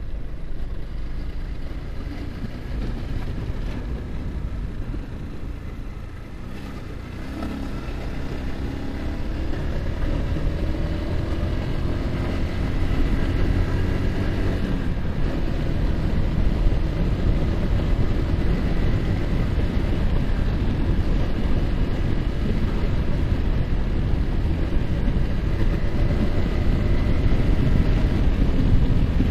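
Yamaha R15's single-cylinder engine under way with heavy wind noise on the microphone. About seven seconds in the engine pitch climbs as the bike accelerates, breaks off about halfway through, then the engine and wind hold steady and louder.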